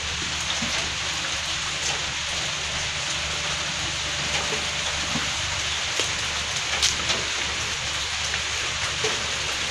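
Steady rain falling, an even hiss with a few louder drop ticks now and then.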